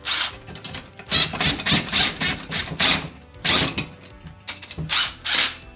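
Metal mill parts and bolts clattering and scraping as they are handled and sorted, in irregular clusters of clinks and rattles.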